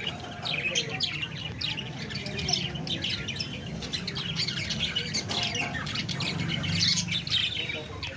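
A flock of small pet parrots (love birds) chattering: many rapid chirps and squawks overlapping without pause, over a low steady hum.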